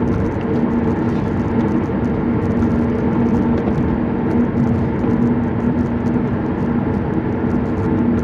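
Car driving, heard from inside the cabin: steady road and engine noise with a low, even drone.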